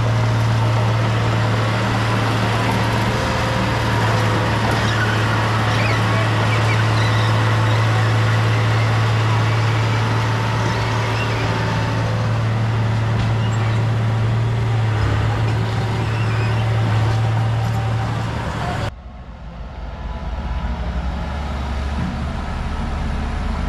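Heavy earthmoving machine's diesel engine running steadily with a strong low hum. About 19 seconds in, the sound changes abruptly to a quieter, duller engine rumble.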